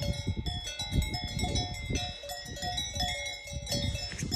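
Many livestock bells clanking irregularly at several different pitches, as a herd moves.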